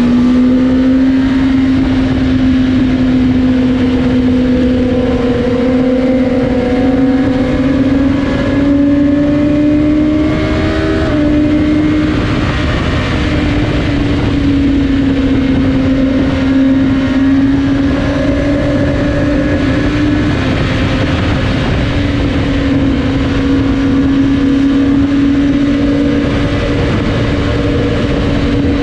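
Superbike engines running hard at highway speed, the engine note holding steady and shifting up and down with throttle, with more than one bike's note overlapping and wind noise underneath.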